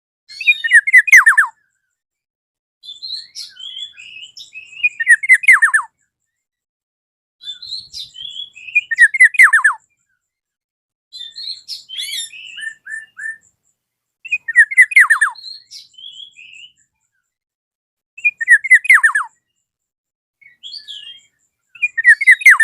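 Black-naped oriole calling in loud, repeated phrases about every three to four seconds, each ending in a falling run of rapid strokes, with silence between. This is the bird's challenge call to a rival.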